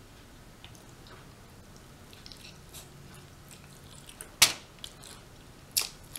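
Close-up chewing and wet mouth sounds of someone eating rotisserie chicken, with small scattered clicks and two sharp loud clicks about four and a half and six seconds in, the first the loudest.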